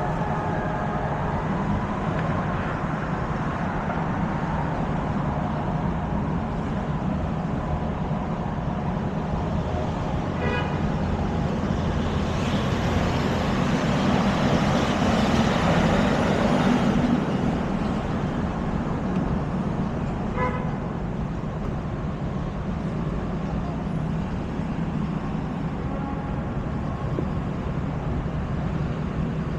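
Busy street traffic: a steady mix of engines and tyres, with a louder vehicle passing about halfway through. Short car-horn toots sound about ten seconds in and again about twenty seconds in.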